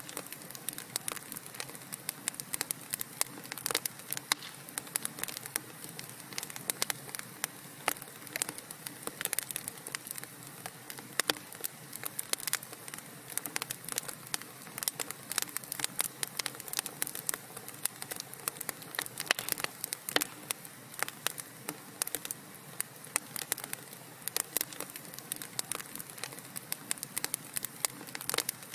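Wood fire burning in a fireplace, crackling and popping constantly with many sharp snaps over a steady soft hiss.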